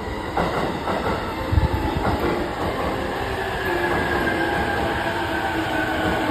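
E233-series electric commuter train pulling into a station and slowing: wheels rolling on the rails with a few knocks, and a high whine that slowly drops in pitch as it decelerates.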